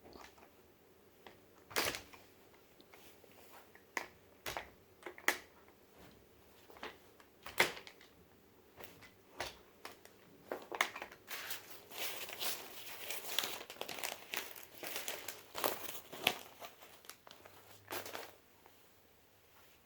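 Handling noise: crinkling and rustling, with scattered sharp clicks and knocks, and a denser run of crinkling in the middle.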